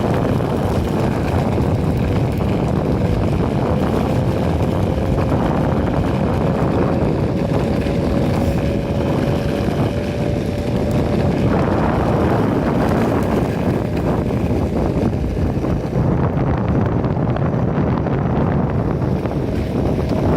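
Wind buffeting a phone microphone during a ride on an Enertion Raptor 2 electric skateboard, mixed with wheel and road rumble. A faint whine rises slightly in pitch for about the first half and then fades out.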